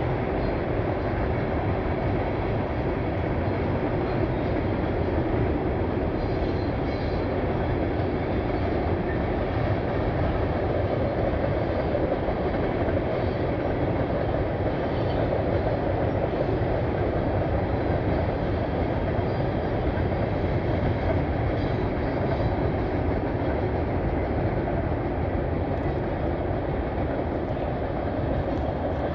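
Norfolk Southern mixed freight train rolling past: the steady, even noise of a long string of freight cars running on the rails.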